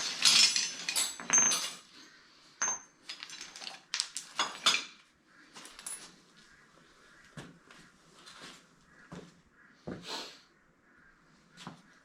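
Metal clinks and knocks of tools and parts being handled. There is a dense clatter in the first couple of seconds, then scattered lighter taps.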